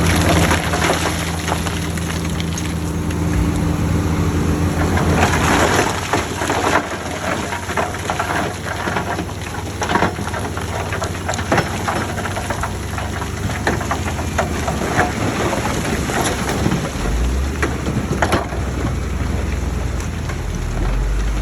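A heavy machine's diesel engine running, joined about five seconds in by a long dense crackling of soil and rocks sliding and tumbling as fill is dumped or pushed, easing off near the end as the low engine drone comes back.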